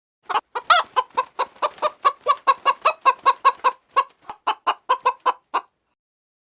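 An animal calling in a fast, even run of short pitched notes, about five a second, which stops abruptly about a second before the end.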